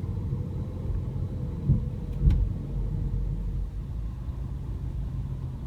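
Low engine and road rumble heard inside the cabin of a 2015 MINI Cooper S Countryman being driven, with a single knock a little over two seconds in.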